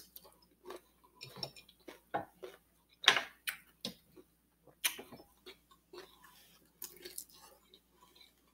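Close-up chewing of a bite of cucumber and rice: irregular crunches and wet mouth smacks.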